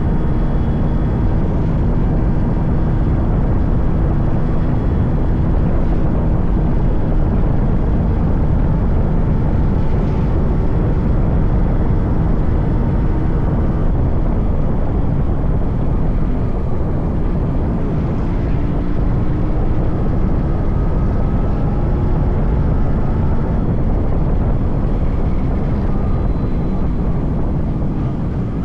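Yamaha RX 100's 98cc air-cooled single-cylinder two-stroke engine running while riding, its note rising and falling gently with the throttle.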